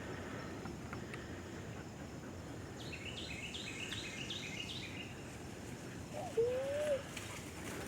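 Wild birds calling over a steady background hiss: a quick run of about six repeated high notes, then a single louder, lower, smoothly arched call about six seconds in.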